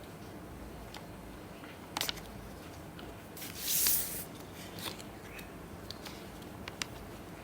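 Handling of the watch's charger and its packaging: a sharp click about two seconds in, a brief rustle near the middle, then a few light taps.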